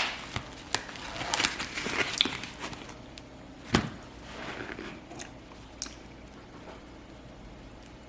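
A person biting and chewing crunchy food close to the microphone, with scattered crackles and a sharp click about four seconds in, then quieter toward the end.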